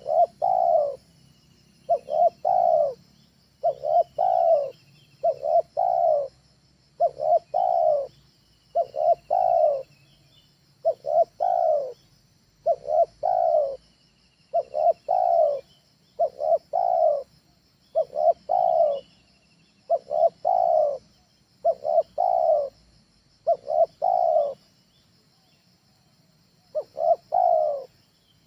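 Spotted dove (tekukur) cooing in a steady series of short two- or three-note phrases, about one every second and a half to two seconds, with a longer pause near the end. This is the kind of trained dove's call used as a lure to draw in wild spotted doves.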